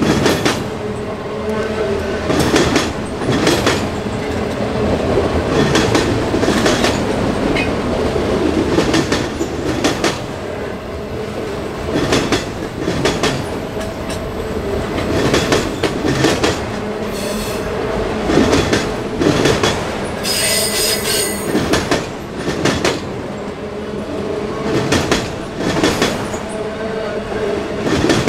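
Train cars rolling past, steel wheels knocking over rail joints about once a second, with a steady squeal from the wheels and a brief higher-pitched wheel squeal about 20 seconds in.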